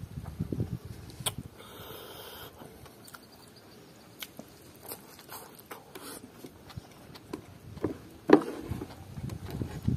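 Close-up eating sounds: chewing and lip smacking on a mouthful of rice and pork curry wrapped in fresh leafy greens, with scattered sharp mouth clicks and one louder smack about eight seconds in.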